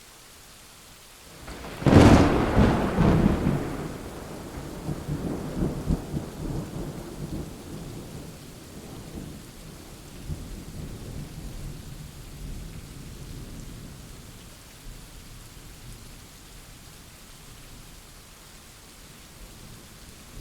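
A close thunderclap: a sharp crack about two seconds in, followed by long rolling rumble that slowly fades over the following fifteen seconds, over steady rain.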